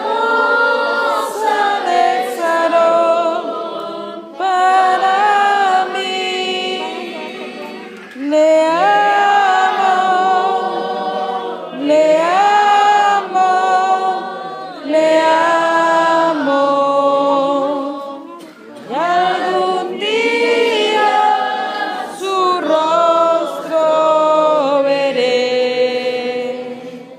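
A group of voices singing a slow Spanish worship song without accompaniment, in phrases of a few seconds with long held notes.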